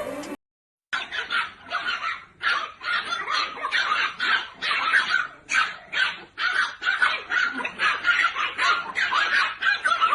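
A dog barking rapidly and repeatedly, about two to three barks a second, starting just after a second in following a brief gap.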